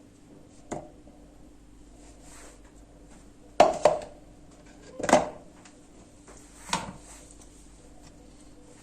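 Kitchenware being handled: five separate knocks and clatters, the loudest a quick pair just before the middle and another a second later.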